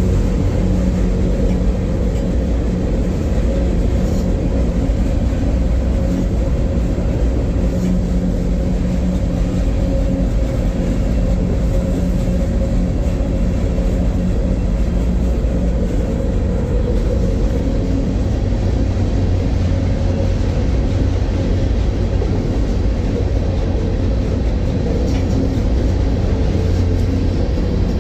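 Freight train running steadily: a continuous loud rumble with a steady low hum.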